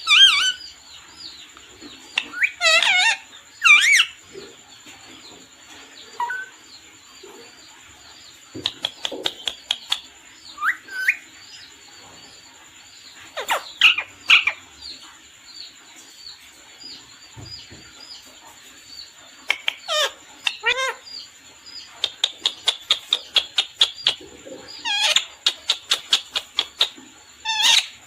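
A parrot calling: loud, shrill calls that sweep up and down in pitch, some in quick pairs and triplets. Near the end comes a rapid run of short, sharp calls, about three or four a second.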